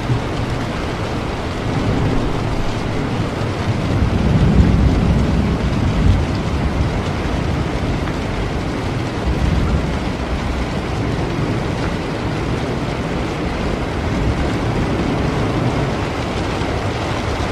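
Steady heavy rain with thunder, a low rumble swelling about four to six seconds in.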